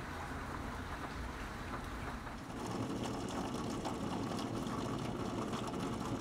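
Steady rain falling. About two and a half seconds in it grows louder and closer, turning into a dense patter of drops striking a wooden rail.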